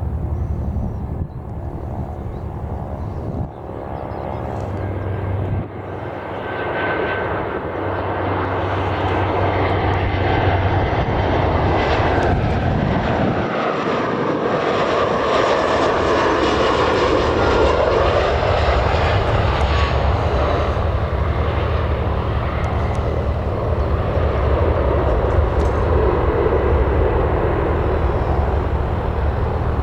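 Aircraft engines passing close by. The sound builds over several seconds, is loudest midway with its pitch shifting as the aircraft goes by, then stays strong as it moves off.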